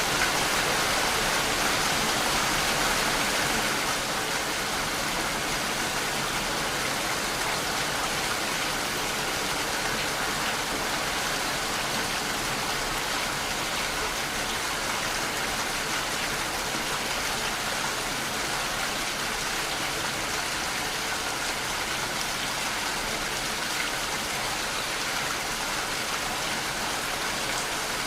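Steady rainfall, an even hiss of drops with no distinct strikes, a little louder for the first few seconds and then constant.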